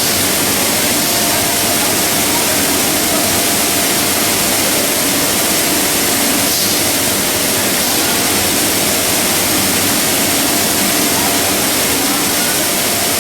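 Machinery of a PE and calcium carbonate pelletizing line running: a loud, steady hiss with faint steady tones through it.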